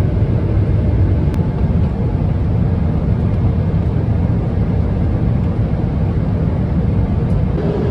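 Steady low rumble of a Boeing 777-300ER airliner heard from inside the cabin: engine and airflow noise. A faint steady hum joins in near the end.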